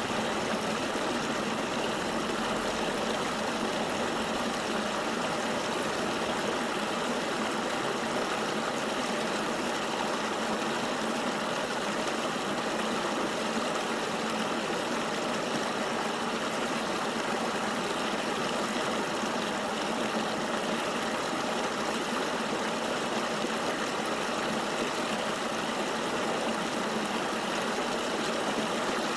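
Steady rush of flowing river water: an even, unchanging hiss.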